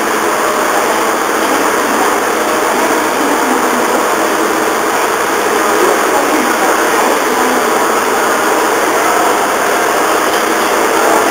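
Steady running noise of a standing HB-E300 series diesel-electric hybrid train, its engine and on-board equipment running at rest.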